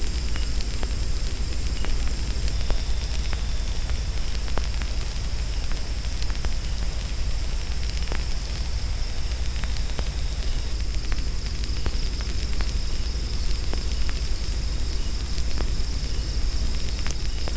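Campfire crackling with scattered sharp pops over a steady low rumble, under a continuous high-pitched drone of jungle insects.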